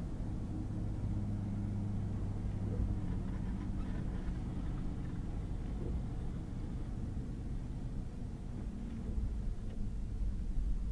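Pickup truck driving on a wet gravel and mud road: a steady low drone of the engine with tyre and road rumble.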